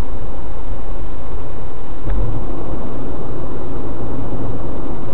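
Loud, steady road and engine noise of a car travelling at expressway speed.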